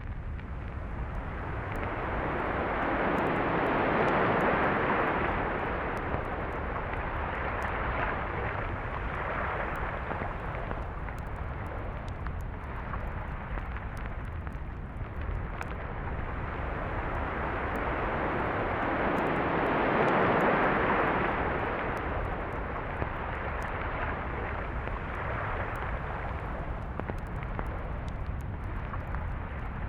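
Surf breaking on a beach, the wash swelling to a peak about four seconds in and again around twenty seconds, over a steady low rumble.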